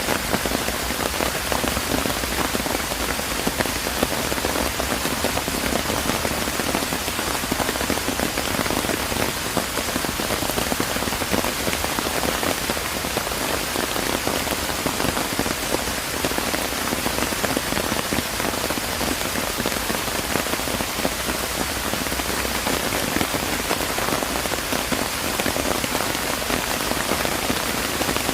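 Steady rain falling on surfaces, a dense even patter of drops with no change in strength.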